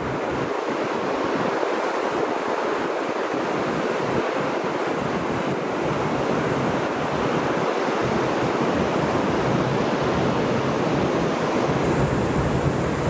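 Ocean surf washing onto a beach: a steady, continuous rush of breaking waves.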